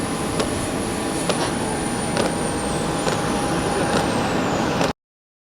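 Jet aircraft engines running with a steady rush and a high whine that drops in pitch twice, about three and four seconds in, as if spooling down. The sound cuts off abruptly just before the end.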